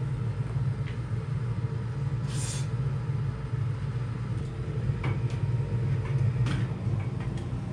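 Oil furnace running with a steady low rumble from its burner and blower. A brief hiss comes about two and a half seconds in, and a few faint clicks follow later.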